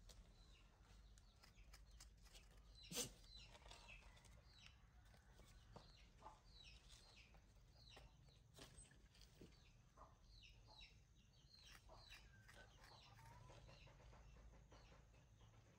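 Near silence, with faint scattered bird chirps and clucks and one sharp click about three seconds in.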